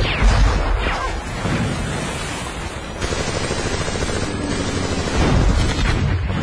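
Battle sound effects: dense gunfire and heavy explosions, with a few short descending whistles near the start and again near the end.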